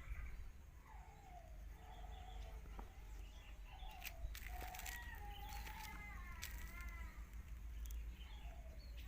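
Domestic cats yowling at each other in a standoff before a fight, a run of long wavering drawn-out calls that grow stronger in the second half, with a few sharp clicks.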